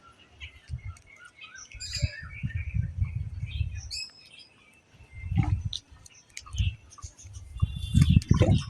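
Several small birds chirping and calling in short, scattered notes. Irregular bursts of low rumble come and go beneath them, loudest near the end.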